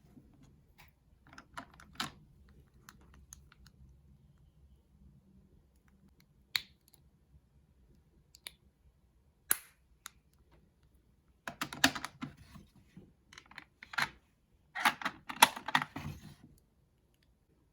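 Cosmetic items being handled close to the microphone: scattered single sharp clicks, then three dense bursts of clicking and rustling in the second half, which stop abruptly.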